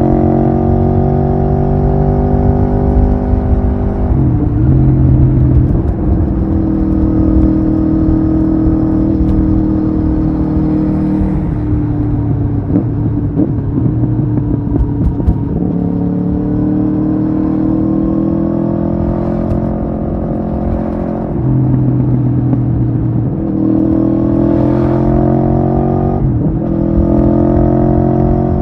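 Aprilia Tuono V4R's V4 engine heard on board while riding, pulling hard with its pitch climbing and then dropping sharply at each upshift, several times. A rougher, unsteady stretch about midway breaks up the steady pull.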